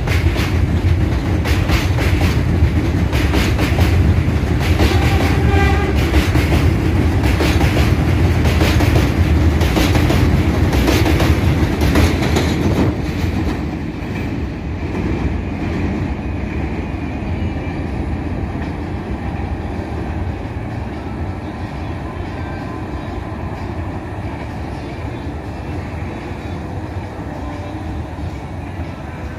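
R188 subway train running on elevated track, its wheels clacking rhythmically over rail joints above a heavy low rumble. The clacking dies away about 13 seconds in, leaving a quieter steady rumble.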